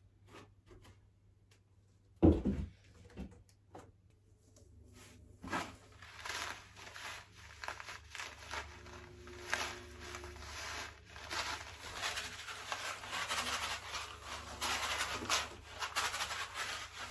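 Rustling and crinkling of packaging being handled and pulled about while a shipping box is unpacked, growing busier toward the end, after a single knock about two seconds in.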